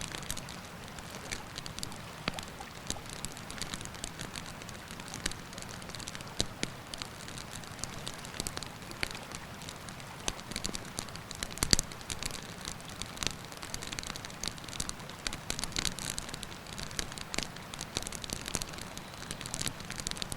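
Wood campfire crackling, with frequent small sharp pops and one louder pop just past the middle, over a steady rush of river water.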